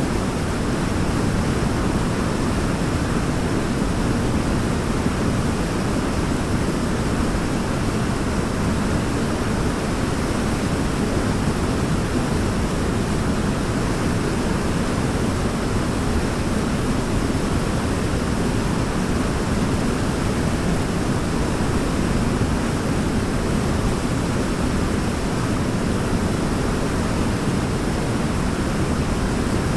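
Waterfall: a steady, even rush of falling water, deepest in the low range, with no change or break.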